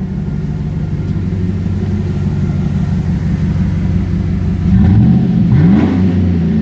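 Chevy Silverado 1500's 5.3-litre V8 running with its muffler cut out, idling with a deep rumble, then revved up twice near the end. Louder and rawer exhaust note from the muffler delete.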